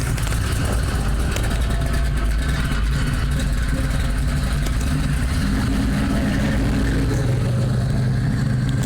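Car engine running with a steady low rumble; a deeper engine note grows stronger about halfway through.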